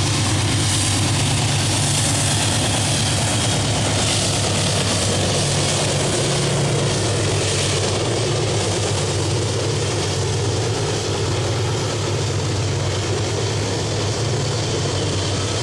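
A pair of GE AC44i diesel-electric locomotives working under load as they haul a heavily loaded iron ore train up a grade, a deep steady engine drone. The loaded ore wagons rolling on the rails follow as the locomotives go by.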